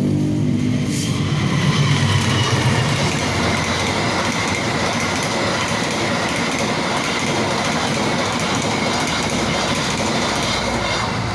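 Train passing close by on the line: a steady, loud rush of wheels running on the rails, with a faint high tone running through it.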